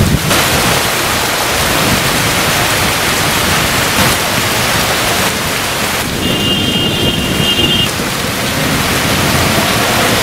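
Heavy rain pouring steadily onto a road. A thin high tone sounds for under two seconds just past the middle.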